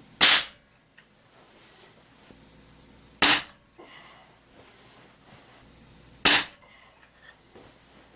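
Ruger Air Hawk .177 break-barrel air rifle firing Stoeger X-Speed alloy pellets: three sharp shots about three seconds apart. Each crack is short, with a brief decay.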